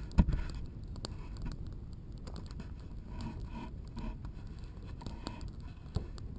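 Camera handling noise as it is carried and mounted on a tripod: a knock right at the start, then light scrapes and clicks, and another knock near the end.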